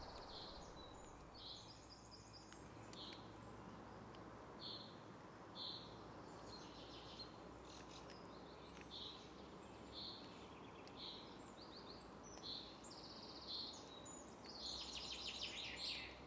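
Faint woodland birdsong: short high chirps roughly once a second, with a longer, busier twittering phrase near the end, over a low steady background hiss.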